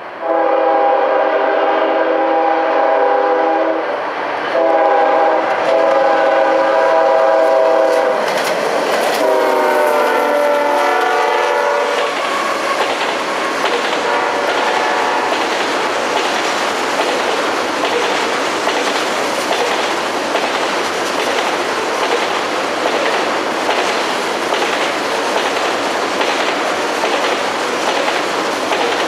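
Diesel locomotive's multi-note air horn sounding two long blasts, then a third whose pitch drops as the locomotive passes. The freight train then rolls by with a steady rumble and regular clickety-clack of wheels over rail joints.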